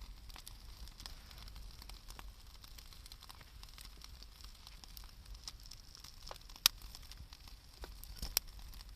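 Wood fire crackling, with scattered small snaps and two sharp, loud pops near the end.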